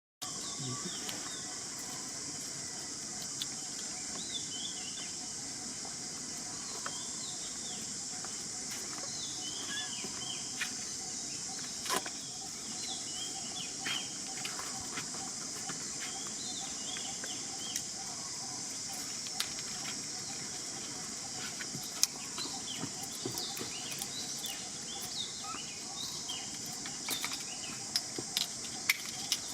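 Steady high-pitched insect drone with many short bird chirps scattered through it, and occasional sharp clicks.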